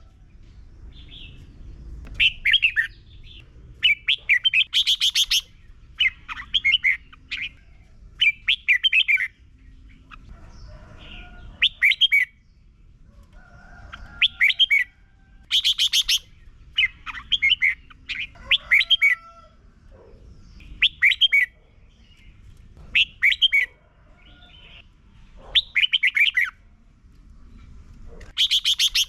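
Red-whiskered bulbul singing: short, bright, warbled phrases given one after another, about every second or two, with brief pauses between them.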